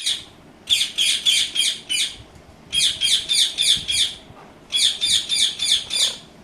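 Ringneck parrot screeching in three quick bursts of about five or six harsh, high notes each.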